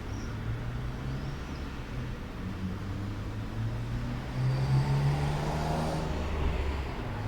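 Low, steady hum of a motor vehicle engine, swelling louder for a couple of seconds past the middle as if the vehicle passes close.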